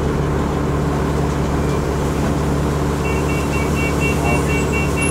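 Alexander Dennis ALX400 double-decker bus engine running with a steady drone, heard on board. About three seconds in, a rapid electronic beeping in two high tones starts, about four beeps a second.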